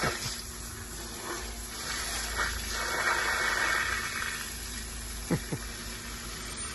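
Water pouring steadily onto plants as they are watered, with two short knocks about five seconds in.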